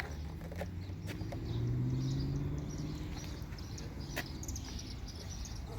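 Outdoor ambience with a low distant motor hum that swells and fades about a second in, a few sharp clicks, and faint bird chirps.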